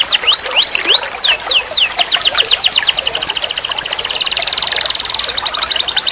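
Domestic canary singing a rapid trilled song that changes pattern every second or so. Fast repeated downward-sweeping notes give way to three slow rising notes and three slower falling ones, then quick rolls and a buzzy, tightly packed roll near the middle, then a fast trill again.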